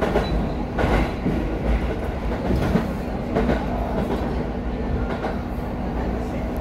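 Passenger train running at speed, heard from inside the driver's cab: a continuous rumble with a steady hum, and irregular clacks of the wheels over the rail joints.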